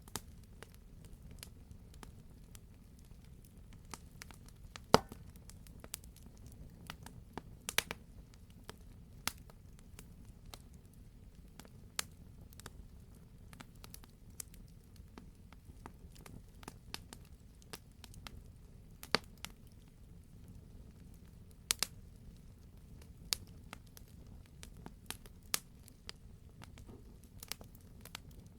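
Wood fire in a fireplace crackling, with scattered irregular pops over a steady low rumble; one pop about five seconds in stands out as the loudest.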